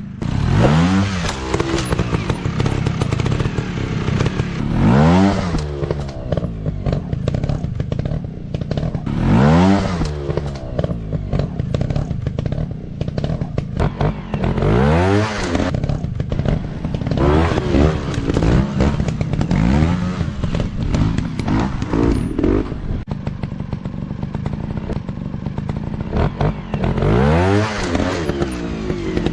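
Dirt bike engines running, revved up and let back down again and again, each rev a rising then falling whine over a steady engine note.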